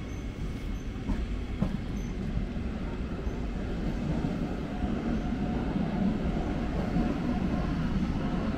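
Train moving on the tracks: a steady low rumble that grows gradually louder.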